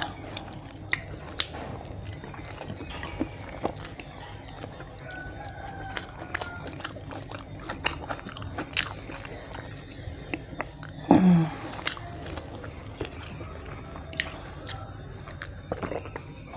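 Close-miked eating: wet chewing and smacking mouth clicks as rice and fish curry are eaten by hand. A brief low hum from the throat, falling in pitch, about eleven seconds in is the loudest sound.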